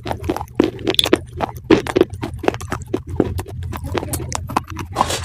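Close-up crunchy chewing: irregular crisp crunches, several a second, over a steady low hum.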